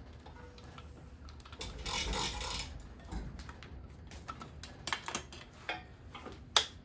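Scattered sharp metallic clicks and knocks of a socket wrench and loosened bearing-cap bolts on an engine block, with a brief scraping rustle about two seconds in, as a main bearing cap is worked loose.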